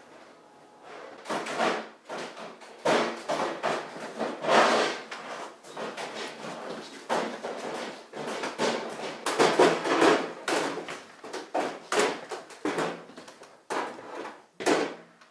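Irregular knocking and clattering of hard objects, a laptop being pushed and banged against a microwave oven's door and cavity in a failed attempt to fit it inside.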